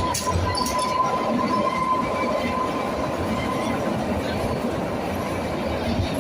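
Kalka–Shimla narrow-gauge toy train running, heard from aboard the carriage: a steady rumble of wheels on rail with a thin, high wheel squeal that is strongest in the first couple of seconds.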